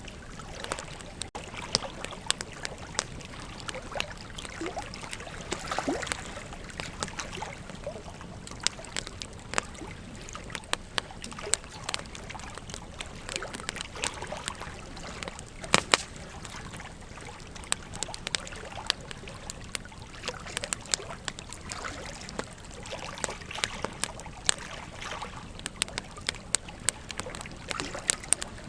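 Wood campfire crackling, with irregular sharp pops and snaps several times a second, some much louder than others, over the steady rush of a flowing river.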